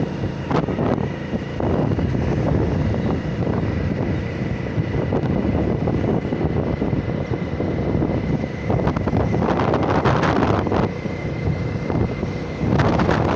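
Motorcycle running steadily on the move, its engine drone mixed with wind on the microphone, growing louder for a few seconds around ten seconds in and again near the end.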